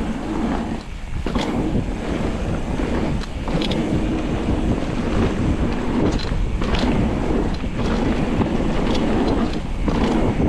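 Mountain bike riding down a trail: steady wind rush over the camera microphone, with the bike rattling and short sharp knocks as it goes over bumps.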